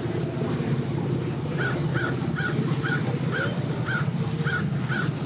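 A crow cawing about nine times in a steady series, about two caws a second, starting partway in, over the steady low rumble of an idling engine.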